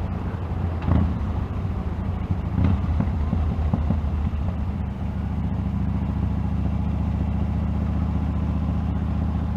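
Motorcycle engine running while riding, heard under wind noise through a Sena Prism Tube camera's external mic. There are two brief thumps in the first three seconds, and the engine note settles to a steady pitch about halfway through.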